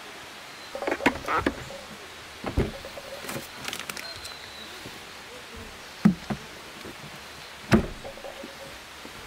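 Irregular knocks and clatters of objects being handled and set down, about five or six separate hits, the loudest two past the middle, over a steady outdoor hiss.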